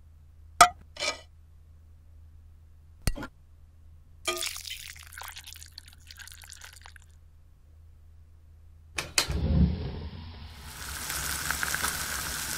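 Kitchen sound effects: a few sharp clicks of a portable gas stove being lit, then oil poured into a frying pan, then a steady sizzle as the oil heats, starting about three-quarters of the way in.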